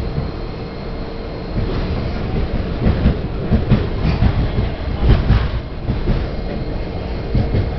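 Miami Metrorail Budd-built rapid transit car running on the track, heard from inside: a steady low rumble of wheels and running gear with a constant hum. It gets louder about two seconds in, with a run of sharp knocks and clatter for the next few seconds.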